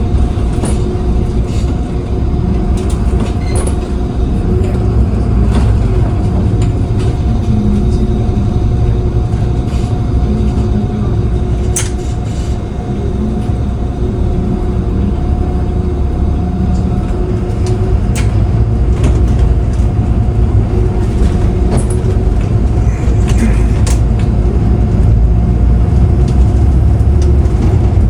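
Steady low rumble of a moving vehicle heard from inside, with a constant motor hum and scattered small rattles and clicks.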